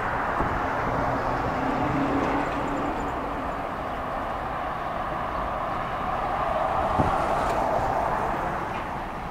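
Freight train's covered hopper cars rolling past, a steady rumble of steel wheels on rail, with one sharp knock about seven seconds in.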